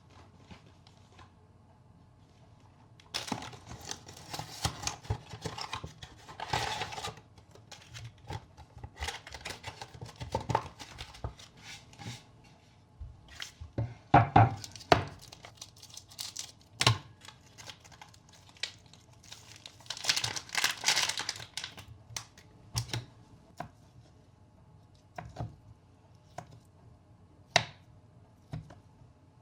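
Paper or plastic packaging handled by hand: irregular bursts of tearing and crinkling, with a few sharp knocks of objects being set down.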